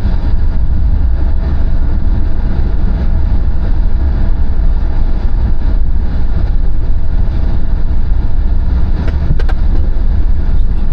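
A car driving at speed: steady low rumble of road and wind noise, with engine noise underneath.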